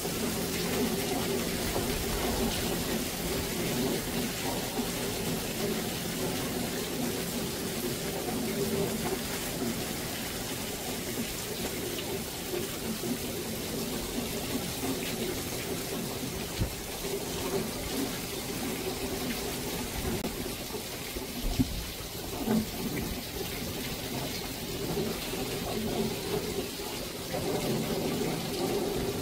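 Heavy monsoon rain falling steadily, with a running, splashing-water sound. A few sharp knocks stand out about three quarters of the way through.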